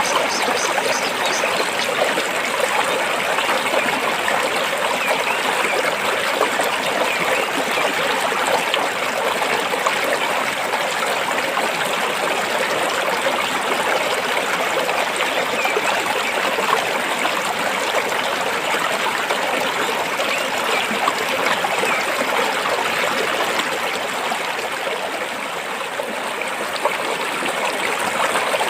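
Stream water flowing and trickling over rocks, a steady babbling rush that eases slightly near the end.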